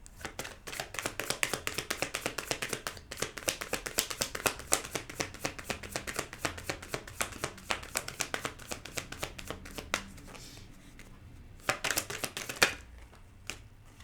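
A tarot deck being shuffled by hand: a rapid run of card slaps and clicks lasting about ten seconds, then a brief second burst near the end.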